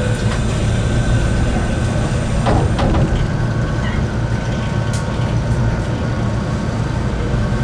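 Enoden electric train running along the track: a steady rumble of motors and wheels on the rails, with a short sweeping squeal about two and a half seconds in.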